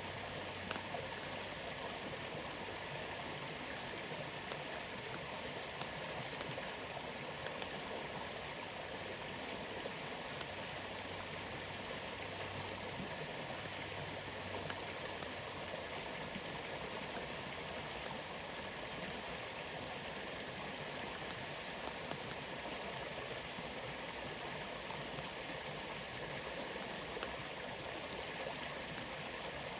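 Rainforest waterfall: a steady rush of falling water, with scattered light ticks of raindrops.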